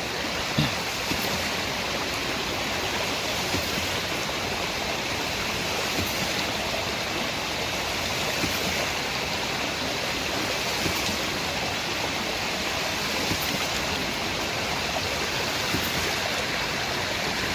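Hydraulic ram pump running: steady rushing and splashing water, with a short click about every two and a half seconds as the waste valve snaps shut on each pump cycle.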